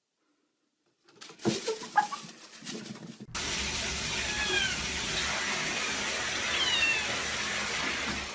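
A few knocks and some clatter, then water starts running with a steady rush about three seconds in, and a cat meows a few times in short falling calls over it.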